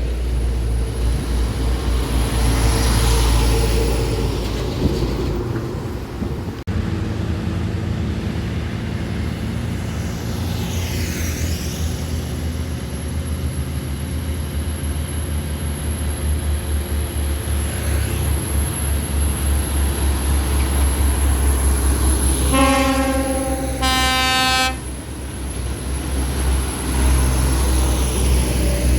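Heavy diesel truck engine running steadily on the road, with two short horn blasts a little over twenty seconds in.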